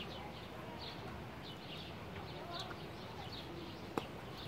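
Small birds chirping over steady outdoor background noise, with a single sharp click about four seconds in.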